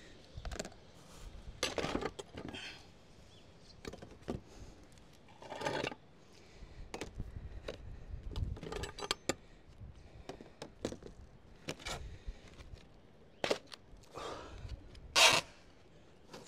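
Intermittent scrapes, clicks and knocks of sheet lead and hand tools being handled and worked, with one louder scrape near the end.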